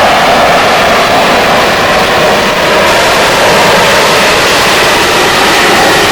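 Harrier jump jet's Pegasus engine running very loud and steady: a dense roar with a whine in it, its high end brightening about halfway through.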